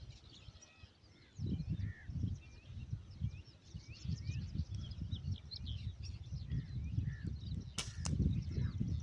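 Heavy wind buffeting the microphone in gusts, with many small birds chirping. Near the end a sharp crack of a PCP air rifle shot, followed by a second snap about a third of a second later.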